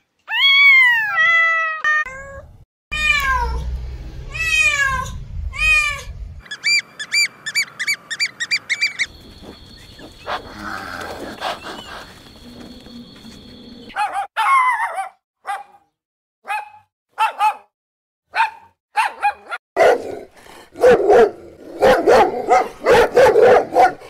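A run of animal calls: a cat meowing several times in the first seconds, other high calls and a steady high tone in the middle, then dogs barking and yelping in quick short calls through the last ten seconds.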